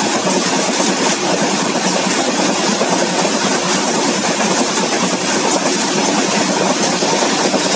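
Freight train of open steel wagons rolling past close by: a steady, loud clatter of wheels and wagon bodies on the rails.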